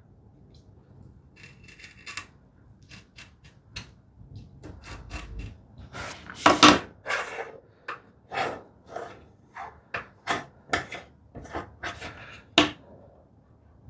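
A knife scoring layout lines into cherry wood along the edges of a hinge: a run of short scratching strokes, about two a second, starting about three seconds in, the loudest about halfway through.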